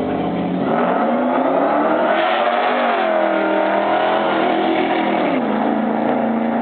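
Supercharged 5.4-litre V8 of a Ford Lightning pickup, fitted with a Kenne Bell 2.6 supercharger, running hard under acceleration. The engine note climbs from about half a second in, dips and climbs again, then drops to a lower, steadier note a little before the end.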